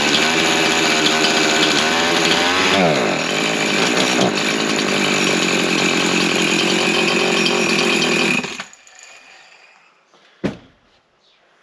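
Freshly rebuilt Husqvarna 353 two-stroke chainsaw running, its engine speed dipping about three seconds in, then cutting off abruptly after about eight and a half seconds. A single knock comes near the end.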